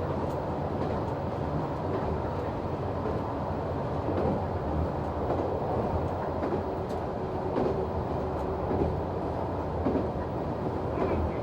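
Noto Railway NT100 diesel railcar under way, heard from the cab: a steady engine hum mixed with wheel-on-rail running noise, with a few faint clicks.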